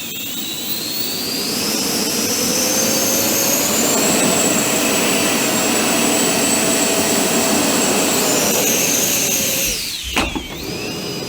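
Four 50 mm twelve-blade electric ducted fans on a quadcopter, whining loudly as they spool up to a high pitch and hold there. About ten seconds in the whine drops sharply with a knock and a thud, then picks up again at a lower pitch.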